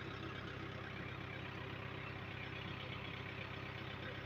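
A heavy vehicle engine running steadily at idle, a low even hum with no revving.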